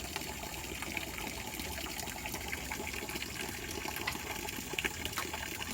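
Steady rush of flowing river water, an even noise that does not change, with a few small clicks over it.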